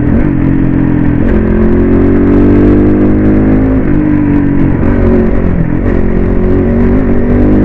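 CrossFire RM 250 dirt bike's engine running under way, its pitch climbing and dropping back several times as the throttle is opened and closed.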